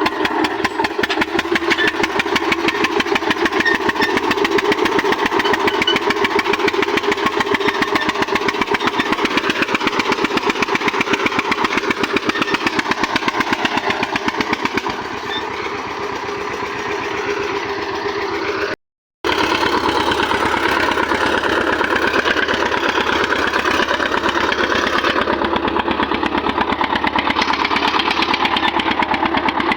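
Eicher tractor's diesel engine running steadily, its exhaust firing in quick, even pulses. The sound cuts out for a moment about two-thirds of the way through, then the engine carries on the same way.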